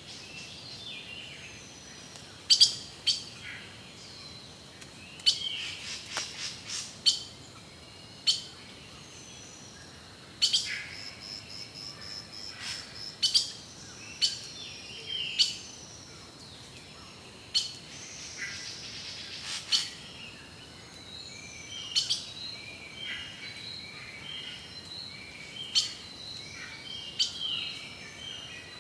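Several birds calling: loud, sharp chips at irregular intervals over softer whistled and sliding notes, with a faint steady high tone behind them.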